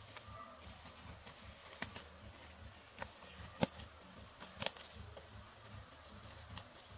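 A handful of short, sharp clicks and taps, irregularly spaced, over a low steady background; the sharpest comes about halfway through.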